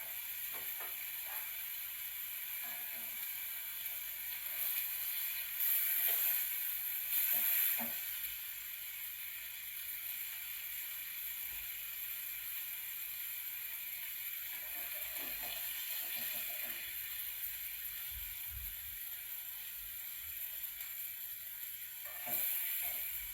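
Tagine bubbling and sizzling on the heat, a steady hiss that swells louder a few times, with a few light knocks.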